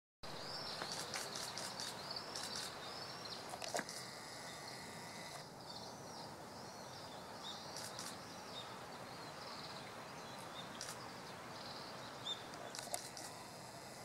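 Small bird calling: a rapid series of high, curling chirps over a steady background hiss, fading out about nine seconds in, with a few sharp clicks, the loudest near four seconds in.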